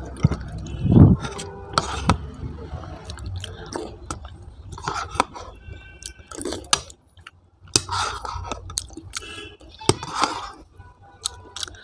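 Close-up chewing and mouth sounds of a person eating: irregular wet smacks and small clicks, with a dull thump about a second in.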